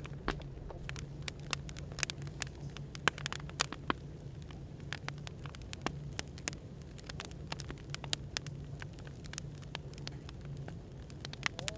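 Burning firewood crackling, with frequent irregular sharp pops, over a steady low hum of white noise.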